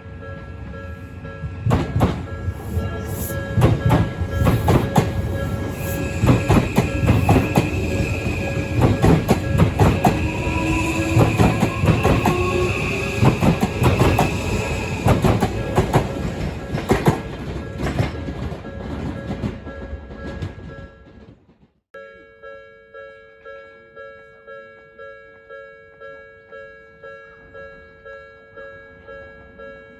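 Train passing over a level crossing, its wheels clacking over the rail joints in a long run of knocks, with the crossing's electronic warning bell ringing over it. About two-thirds of the way through the train sound stops abruptly and the warning bell goes on alone, pulsing a little under twice a second.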